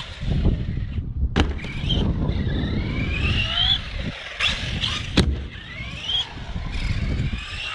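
Brushless electric motor of an RC buggy, a Hobbywing 4000kv in an Arrma Typhon 3S BLX, whining up in pitch several times as it accelerates under throttle. Two sharp knocks come about a second and a half in and again about five seconds in, with a low rumble underneath.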